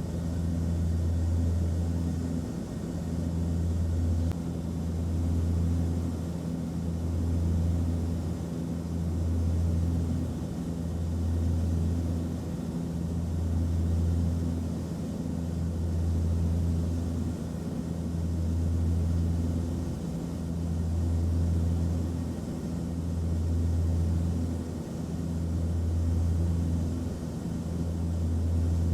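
Aeroplane cabin noise in flight: a steady low drone under a hiss, with a deep hum that swells and fades about every two seconds.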